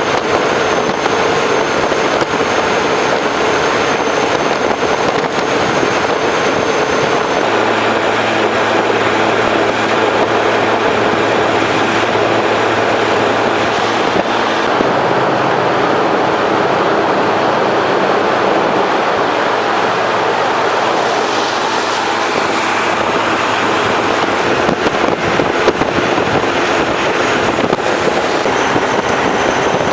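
Motorcycle at road speed: a steady rush of wind and road noise, with a low engine hum that comes in about a quarter of the way through and fades out toward the end.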